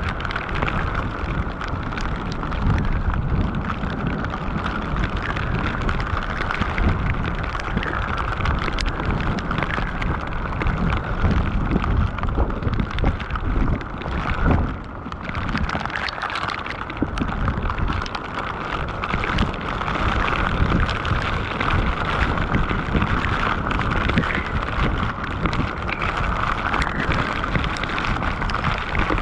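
Heavy rain pouring down: a dense, steady patter of drops over a low rumble, briefly easing about halfway through.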